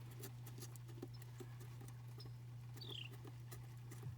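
Faint scattered small clicks and rustles of hands handling wires and tools, over a steady low hum, with one short falling squeak about three seconds in.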